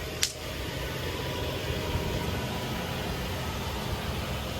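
Toyota Century G50's V12 engine idling steadily just after an oil change, running while it is checked for leaks. There is a single short click just after the start.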